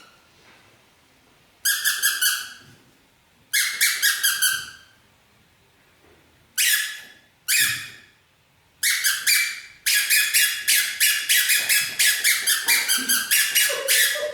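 Rubber squeakers in small mouth-flapping toy bird puppets, squeezed in quick runs of high squeaks: a few short clusters, then a long fast run of squeaks near the end.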